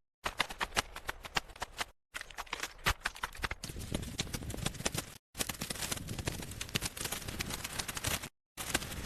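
Rapid, irregular knocking and tapping of manual work, in short clips cut apart by abrupt silences about 2, 5 and 8 seconds in.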